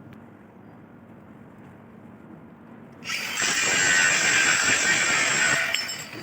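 Electric angle grinder grinding metal for about three seconds, a loud, high whine with a hiss of grinding. It starts about three seconds in and winds down just before six seconds.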